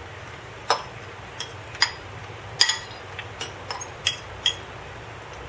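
About seven sharp, irregular clicks and taps of a kitchen utensil against a skillet or dish, over a steady faint sizzle of tortillas frying in butter and oil.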